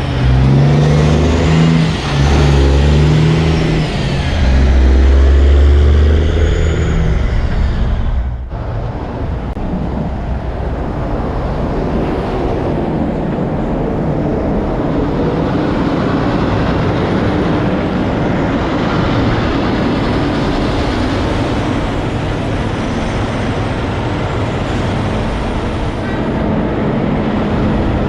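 Large truck engine pulling away and working up through the gears, its pitch dropping back at each shift, about two and four seconds in. At about eight seconds it cuts off abruptly into steady traffic and road noise.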